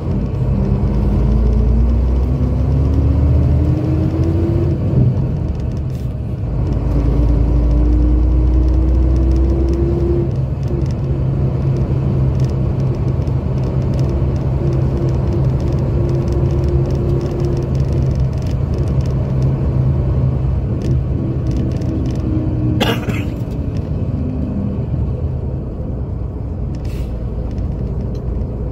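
The diesel engine of a 1984 Scania K82SR coach pulling up through the gears. Its pitch climbs, drops at a gear change about five seconds in, climbs again, then holds steady before easing off. A brief sharp noise comes about three-quarters of the way through.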